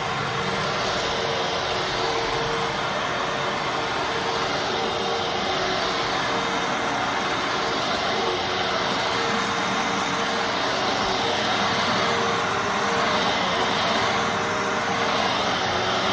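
Fantom Fury Special Edition bagless vacuum cleaner running steadily: a motor whine over rushing air, with a steady hum tone and small swells in loudness.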